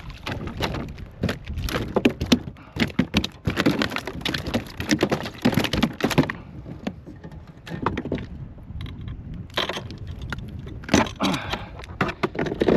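Hooked speckled trout thrashing at a kayak while being landed: irregular splashes with sharp rattling knocks, dense for about six seconds, then two shorter bouts near the end.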